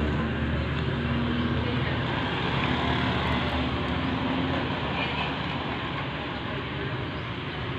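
A motor vehicle engine running nearby: a steady hum with broad road noise that slowly eases off.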